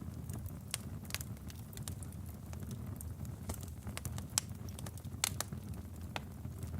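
Wood fire burning in a fireplace: a steady low rumble of the flames with irregular sharp crackles and pops from the burning logs, a few louder pops around a second in and near the middle.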